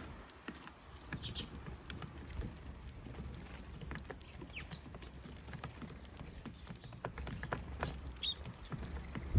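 Eurasian tree sparrows, young birds among them, pecking at feed on a hard surface: faint, irregular light taps, with a few short high chirps.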